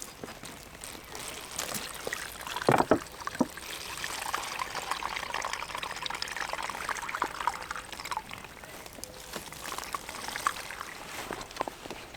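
Liquid being poured and trickling, after a couple of knocks about three seconds in.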